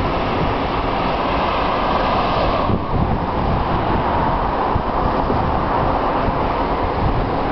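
Strong wind of an approaching dust storm blowing over the microphone: a steady rush of noise with uneven low buffeting, its hiss easing slightly about three seconds in.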